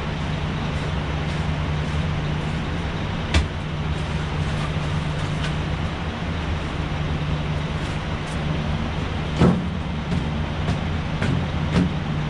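A machine running steadily with a constant low hum, broken by three short sharp knocks, the loudest about two-thirds of the way through.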